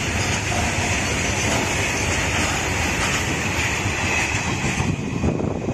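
BCNE covered freight wagons rolling past close by at speed: a loud, steady rumble and rushing noise of steel wheels on rail with rapid clatter. About five seconds in, the higher hiss drops away.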